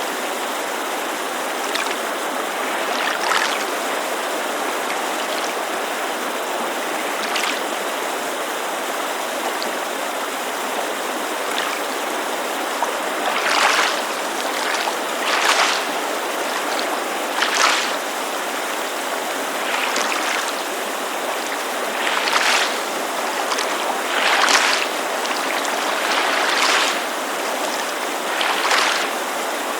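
Mountain creek running steadily as a constant rushing hiss, with water lapping against a lakeshore in brief splashes every two seconds or so, mostly in the second half.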